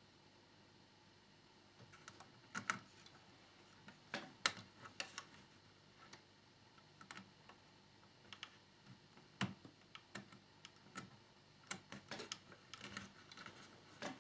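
Scattered light clicks and taps of small plastic model parts and a small screwdriver being handled as tiny screws fasten a scale-model motorcycle fairing, at irregular intervals starting about two seconds in.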